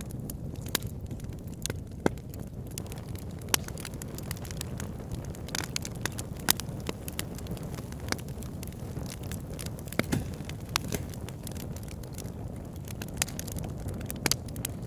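Wood fire in a fireplace crackling, with irregular sharp pops over a steady low rumble of burning.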